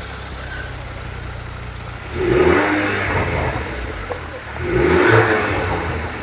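Volkswagen Polo's engine idling just after starting, then revved twice, once about two seconds in and again about five seconds in.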